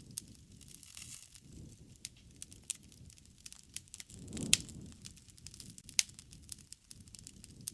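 Wood campfire burning, crackling with frequent sharp snaps and pops over a soft low rush of flame. The loudest snaps come about four and a half and six seconds in, with the low rush swelling around the first of them.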